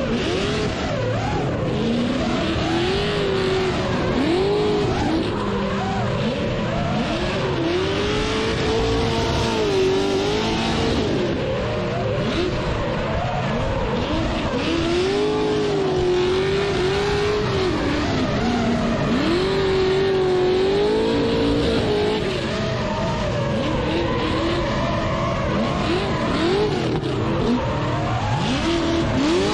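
A drift car's engine revving hard and falling back again and again, with tyre squeal from sliding tyres: throttle worked on and off through a drift run.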